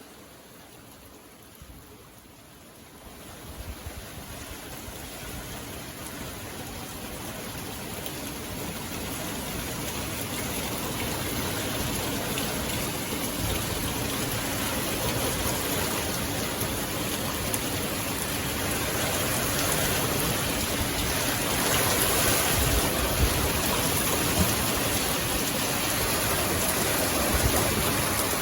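Rain falling: faint at first, then growing steadily heavier and louder over the stretch, a dense even patter.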